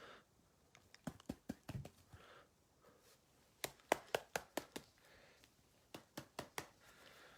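Trading cards being handled and flipped by hand, giving three quick runs of light clicks and snaps with a faint rustle between them.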